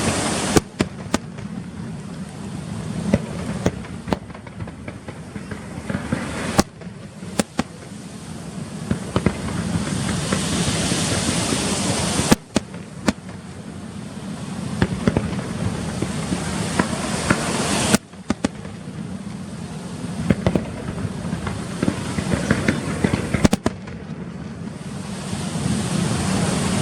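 Aerial fireworks bursting: a loud sharp bang every few seconds, with runs of crackling between them over a steady rushing background that swells and fades.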